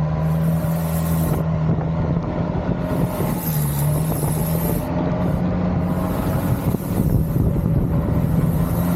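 Boat engine running steadily, a loud low drone with a slight dip in pitch about three and a half seconds in.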